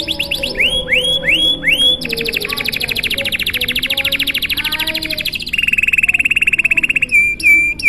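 Domestic canary singing a long, unbroken song: a few slow rising sweeps, then a very fast trill, then a lower, steadier trill, ending with a few short notes.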